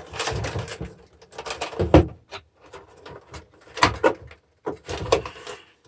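Clatter of a car battery charger being dismantled: scraping and rattling of metal and plastic parts, with sharp knocks about two seconds in, just before four seconds and around five seconds.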